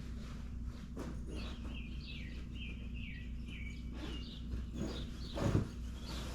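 A songbird chirping in the background, a quick run of short notes stepping down in pitch for about two and a half seconds, over a steady low hum. A single soft knock comes near the end.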